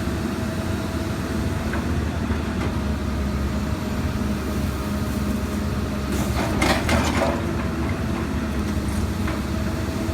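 Excavator's diesel engine running steadily under a constant low drone, with a brief burst of rattling noise about six to seven seconds in.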